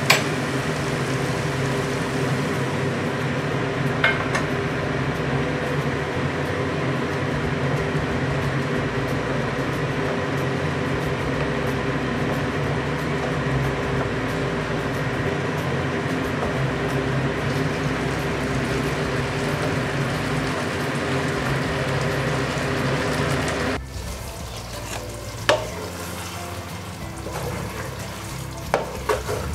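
Cauliflower and capsicum in a cornflour-thickened manchurian sauce sizzling in a frying pan as it is stirred with a wooden spatula. The sizzle stops abruptly about four-fifths of the way through, leaving a few light knocks of the spatula on the pan.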